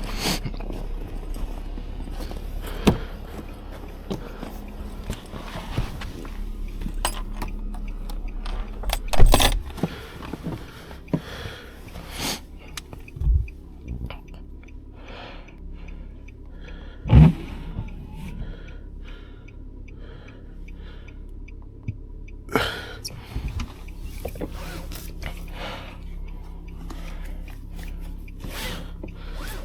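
Handling noises inside a 2023 Nissan Sentra's cabin over a steady low engine hum: scattered clicks, knocks and a few louder thumps, with a run of evenly spaced ticks for several seconds in the middle.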